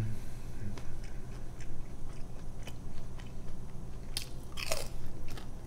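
Close-up chewing and crunching of a thin pizza crust, with small wet mouth clicks. Near the end come two louder wet smacks as fingers are sucked at the lips.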